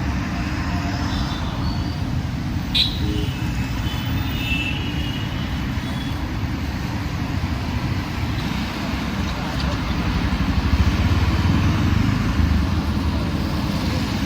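City road traffic: a steady low rumble of passing motor vehicles, swelling as a louder vehicle passes about ten seconds in. A single sharp click comes about three seconds in.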